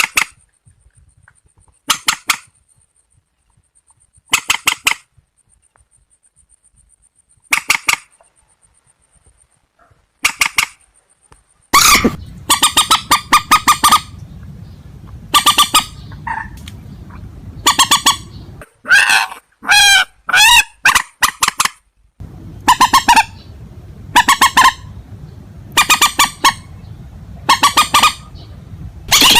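Harsh, honking calls of a rail-family waterbird, each call a quick string of pulses. They repeat every two to three seconds at first, then come thick and fast from about twelve seconds in over a steady low hum.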